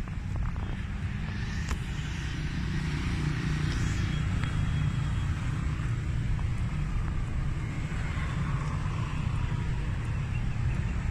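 Motorcycle on the road: a steady low rumble of engine and road noise with some rushing noise above it.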